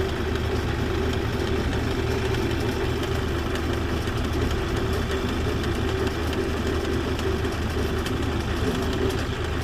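Bobcat tractor's engine running steadily at an even pitch as it mows.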